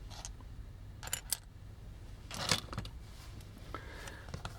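A few separate light clicks and clinks as a screw is undone and small parts of a die-cast-and-plastic toy car robot are handled with a small screwdriver.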